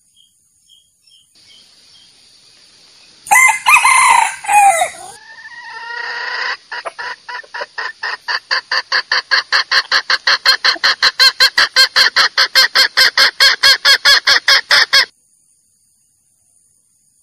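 Junglefowl calls: a rooster's crow about three seconds in, followed by a long run of rapid, evenly repeated clucking calls, about five a second, that stop abruptly near the end.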